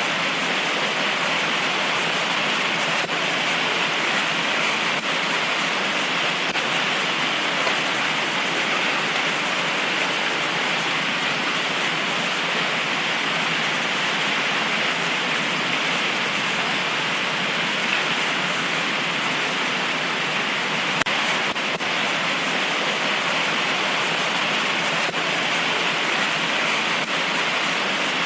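Heavy tropical rain falling in a steady downpour, an even hiss with a few faint drop ticks.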